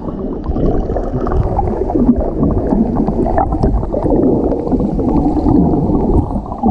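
Muffled underwater sound from a camera held under the water of a river pool: a steady rush with gurgling and bubbling and wavering low tones, all dull, with the high end cut away.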